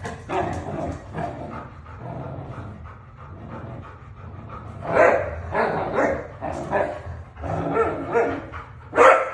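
Dog barking and yipping in short repeated bursts during tug-of-war play, louder from about five seconds in.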